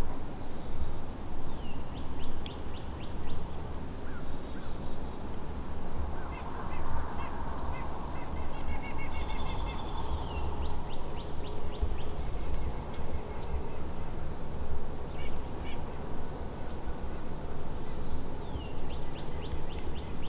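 Birds calling outdoors, with short runs of quick notes a few times and one brief buzzy call about halfway through, over a steady low rumble.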